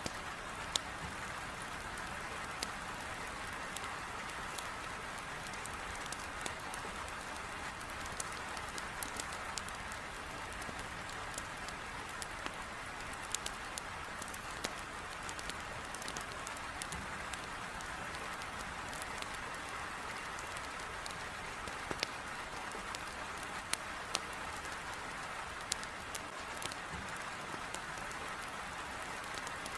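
Heavy rain beating steadily on a window, with scattered sharp pops and crackles of a wood fire burning in a fireplace.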